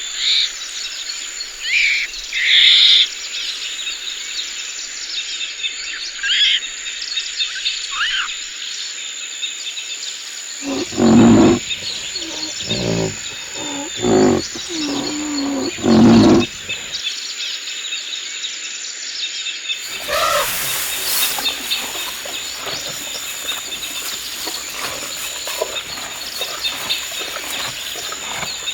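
Tropical forest ambience: birds calling over a steady high insect drone. About halfway through there is a run of five or six loud, low calls from a large animal, which are the loudest sounds here. Near the end a denser forest background cuts in suddenly.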